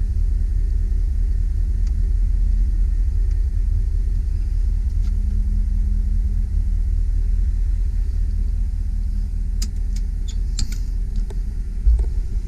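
A 2001 GMC Sierra 3500 HD's 8.1-litre V8 idling steadily, a low rumble with a constant hum. A few light clicks come near the end.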